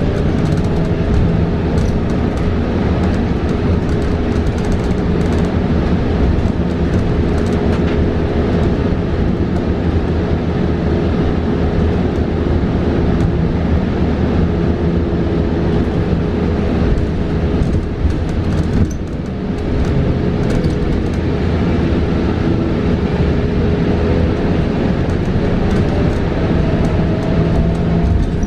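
Inside a 2022 New Flyer XE40 battery-electric bus under way: steady road and tyre rumble with cabin rattles, and the electric drive's whine rising in pitch as the bus picks up speed near the end.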